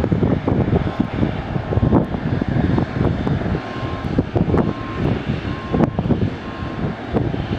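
An airliner's engines running loud at the airport, a rumbling, gusty noise with a faint on-and-off whistle in the middle.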